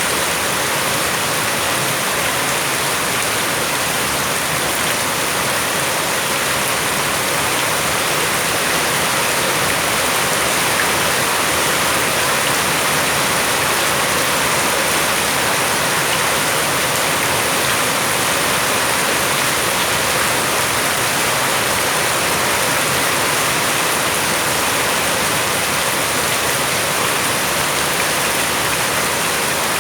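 Rain falling steadily: a dense, unbroken hiss that stays even throughout.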